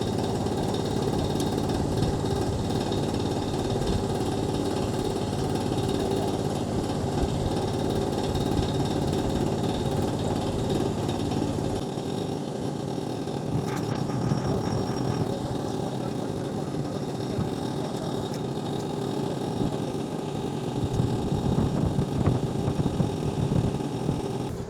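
Small local river boat's motor running steadily, its note shifting about halfway through.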